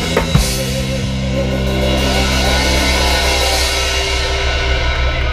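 Live band music: a drum hit just after the start, then a held chord with cymbals ringing over it.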